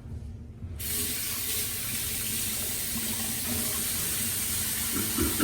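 Sink faucet turned on suddenly about a second in, then cold water running steadily from the tap into the basin.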